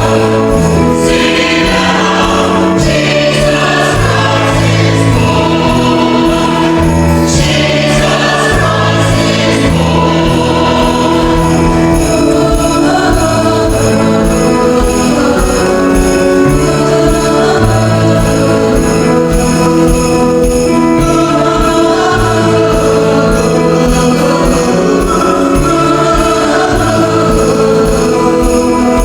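A choir singing with instrumental accompaniment, a steady bass line moving beneath sustained chords.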